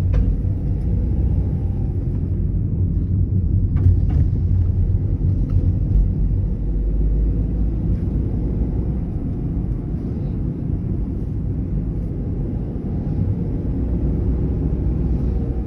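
Car driving along, its engine and road noise making a steady low rumble, with a couple of faint clicks about four seconds in.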